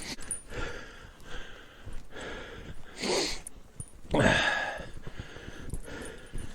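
A person trudging through knee-deep snow, breathing hard, with several uneven swishes and crunches of snow about a second apart; the loudest comes about four seconds in.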